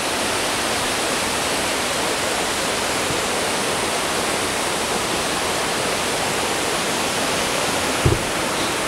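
Steady rushing roar of a waterfall close by, with one brief low thump about 8 seconds in.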